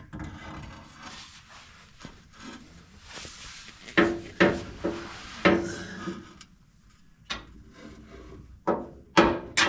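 Metal shift linkage rod of a VW Vanagon being worked into place: scraping and rubbing for the first few seconds, then a run of sharp knocks, each with a brief ringing note, as it bumps against the van's body and parts.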